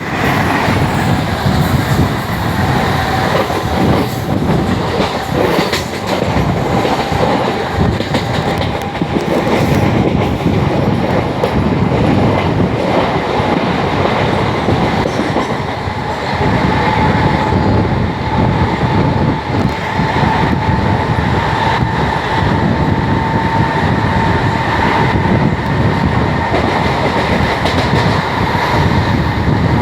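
Mumbai suburban local train running, its wheels clattering over the rail joints. A steady whine rises slowly in pitch over the second half.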